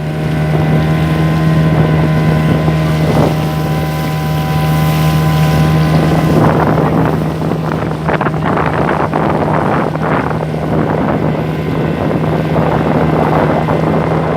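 Hangkai 6 hp outboard motor running steadily at speed, the boat up on plane, with wind buffeting the microphone and water rushing past the hull. The rushing gets louder and choppier about halfway through.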